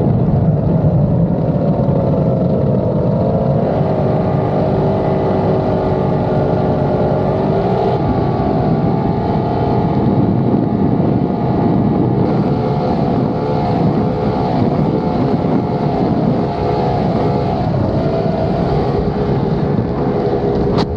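Performance boat's outboard engines running hard at a fairly steady pitch, with small rises and falls in speed and wind buffeting the microphone.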